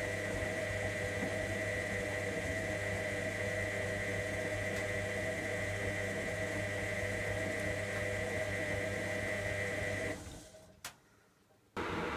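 Electra AWF683 washing machine running through a 95° boil wash: a steady hum with a high whine, which dies away about ten seconds in, followed by a single click and a second of near silence, then starts up again abruptly near the end, as the drum motor pauses and restarts between tumbles.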